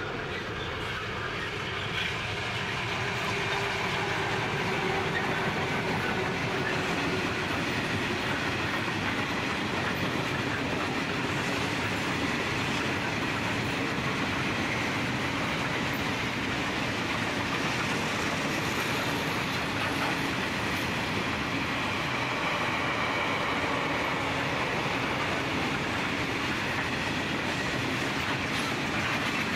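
Freight train of grain hopper wagons passing close by on the mainline: a steady running noise with wheel clatter on the rails, growing louder over the first few seconds as the train arrives, then holding steady.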